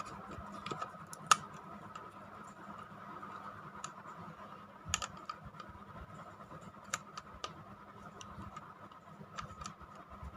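Scattered light clicks and scrapes of a plastic motorized toy train being handled, a few sharper clicks standing out, over a faint steady hum.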